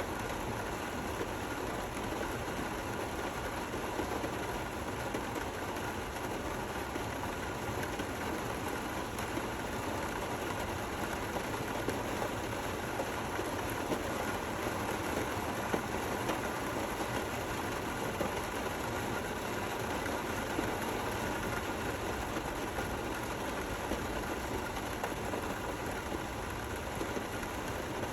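Steady rain falling: an even hiss that does not change, with faint scattered drop ticks.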